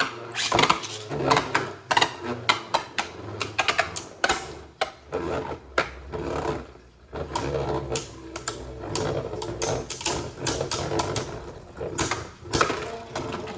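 Plastic Beyblade Burst spinning tops clattering: rapid irregular clicks and knocks of the tops striking each other and the stadium walls, over a steady whir of the spinning tops.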